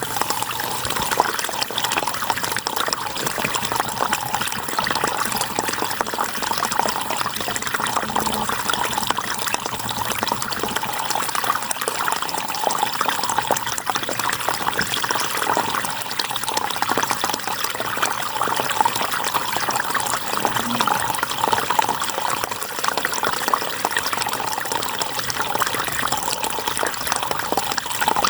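River water flowing steadily over rocks, a continuous bubbling, splashing rush.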